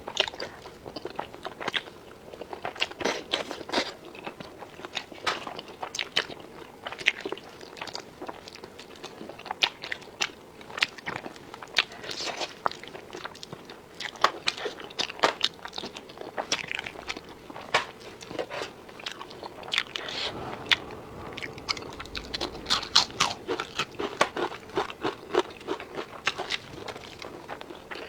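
Close-up crunchy chewing and biting of crisp food: a steady run of irregular sharp crunches and wet chewing sounds.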